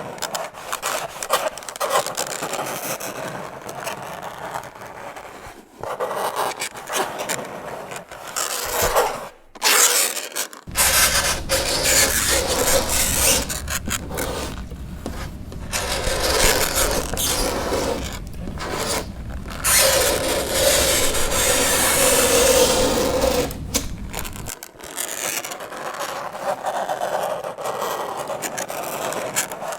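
Fingernails scraping across a chalkboard in repeated uneven strokes with short breaks between them, and a high screech held for a few seconds past the middle. A low hum runs underneath through the middle stretch.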